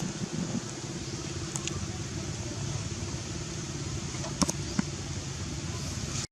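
Steady background hum and hiss, with two short sharp clicks a little past the middle.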